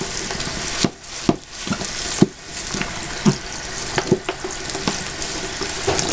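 Tap water running into a sink while soap lather is rinsed out of a bath pouf, with several sharp splashes.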